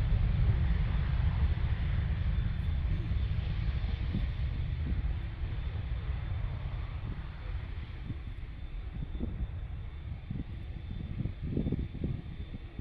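Jet airliner's engines rumbling at takeoff power as it departs, the deep rumble fading steadily. A faint high whine runs under the rumble. Gusty low buffets come near the end.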